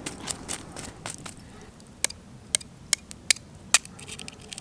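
Campfire embers crackling, a faint hiss dotted with small clicks and about five sharp pops spread across the second half.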